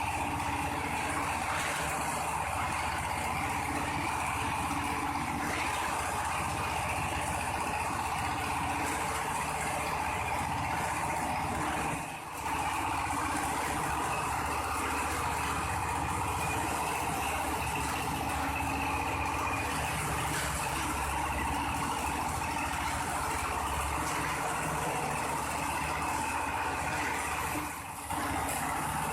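Coconut husk fibre separating machine running steadily, with a continuous mechanical hum. The level dips briefly twice, about twelve seconds in and near the end.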